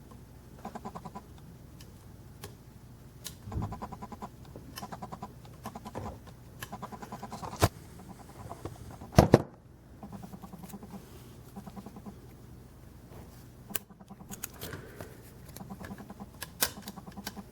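Small clicks and knocks from handling a 1/50-scale diecast model truck and working its opening compartment doors, loudest as a sharp double knock about nine seconds in. Short runs of rapid pulsing sounds come in between.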